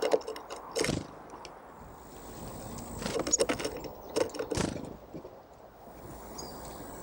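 Small songbirds feeding on seeds close to the microphone: clusters of sharp knocks, taps and scrapes as they land, hop and peck at the seed, with quieter stretches between.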